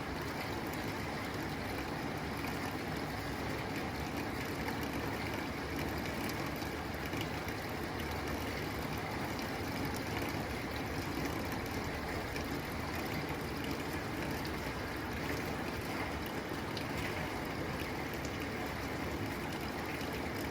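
Steady rain falling on a tin roof: an even hiss of drops with faint scattered ticks.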